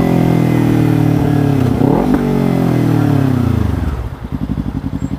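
Kawasaki Ninja 300's parallel-twin engine winding down as the throttle is rolled off, its pitch falling steadily. About four seconds in it settles into a lumpy, pulsing idle.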